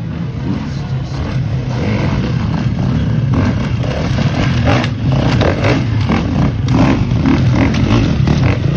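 GasGas dirt bike engine revving in bursts under load as it is ridden over tyre and log obstacles, with some clatter, growing louder through the clip.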